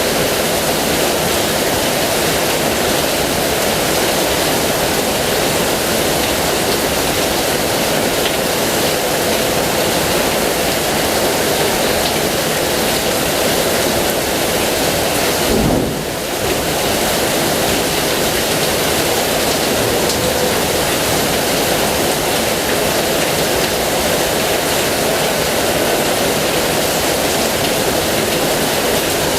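Heavy rain falling steadily, a dense even hiss, with a brief low thump and a short dip in level about halfway through.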